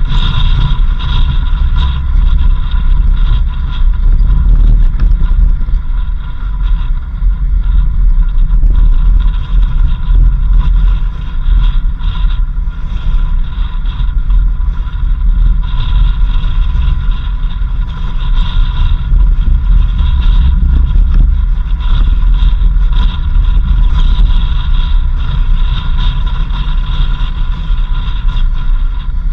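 A 4x4 vehicle driving along a dirt road, heard from on board: a continuous heavy rumble of engine, tyres and wind buffeting, with a steady whine running over it.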